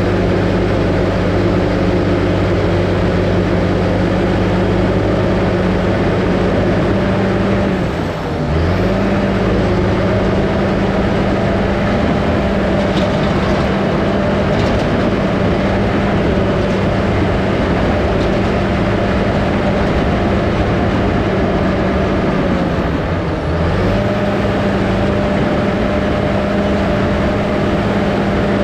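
Small crawler dozer's diesel engine running steadily at working speed. Its pitch dips briefly twice, about eight seconds in and again near twenty-three seconds, then comes back up.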